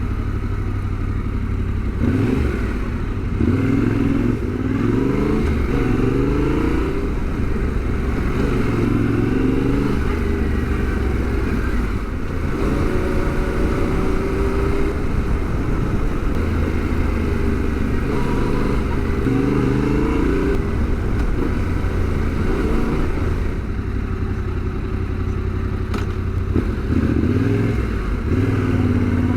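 Adventure motorcycle engine running in stop-start city riding, its pitch rising as it accelerates through the gears and falling back as it slows, over and over.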